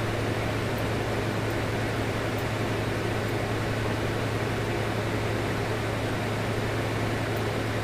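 Steady low hum with an even hiss underneath, constant and unchanging, like a fan or air-conditioner running in the room.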